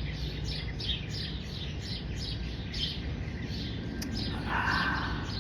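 Small birds chirping in a rapid run of short, falling notes, several a second, over a steady low outdoor rumble. A brief rushing noise comes about four and a half seconds in.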